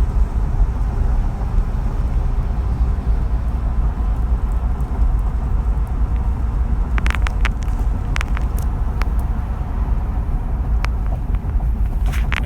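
Steady low road rumble inside the cab of a 2016 Ford F-250 pickup cruising at highway speed, with a few light clicks about seven to eleven seconds in.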